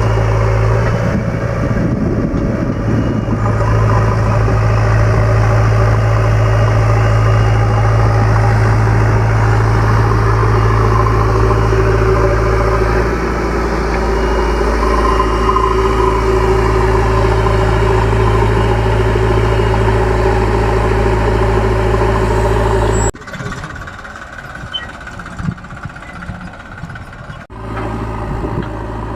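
Large diesel engine running steadily at a constant speed. About 23 seconds in the sound cuts suddenly to a quieter stretch with a few knocks, and an engine is heard again near the end.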